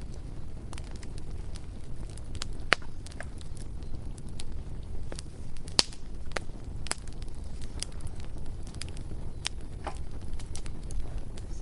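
Bonfire crackling: irregular sharp pops and snaps, the two loudest just under three seconds in and about halfway through, over a steady low rumble of the burning fire.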